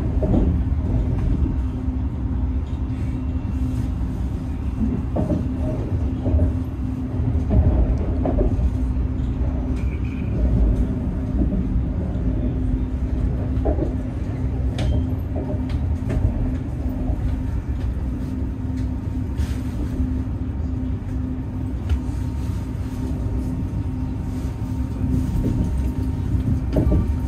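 Cabin noise inside a high-speed train running along the line: a steady low rumble with a faint constant hum and a few light knocks.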